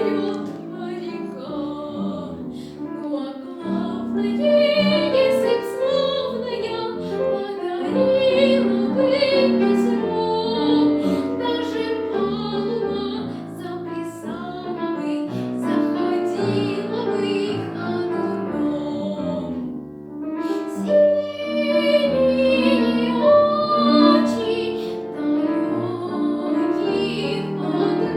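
A young girl singing a Soviet song in a classical, operatic style with vibrato, accompanied by a piano.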